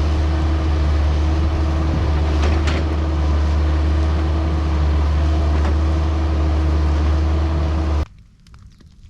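A large engine running steadily at constant speed, which cuts off abruptly about eight seconds in, leaving faint scattered crackling ticks.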